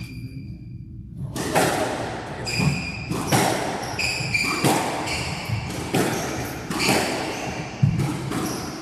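A squash rally: the ball cracks off rackets and the walls about once a second, starting after about a second, with court shoes squeaking on the floor between shots.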